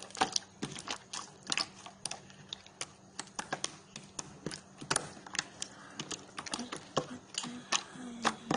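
Slime being squeezed and stretched by hand, giving a quick, irregular run of sticky pops and clicks.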